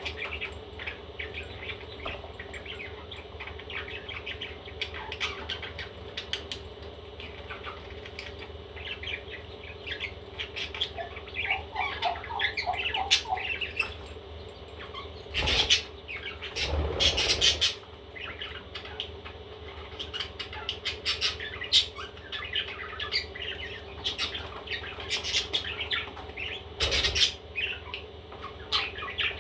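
Baby parrots calling with many short chirps and squawks, with a few louder noisy bursts around the middle and near the end.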